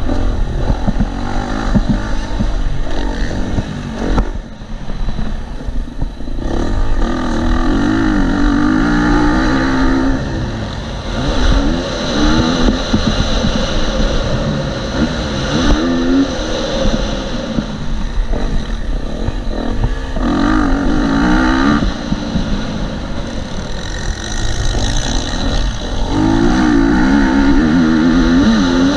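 2018 KTM SX-F 250's single-cylinder four-stroke engine on a motocross lap, the revs climbing and dropping again and again as the rider opens and closes the throttle through gear changes, with a short let-off a few seconds in.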